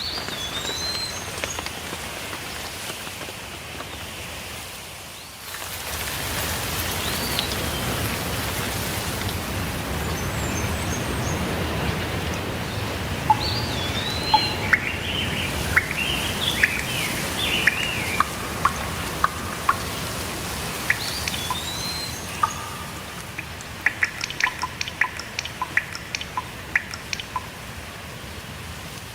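Steady rainfall hiss with birds calling over it; the rain gets louder about five seconds in. One bird repeats a short swooping call every several seconds, others break into a flurry of chirps midway, and sharp drip taps come thick in the second half.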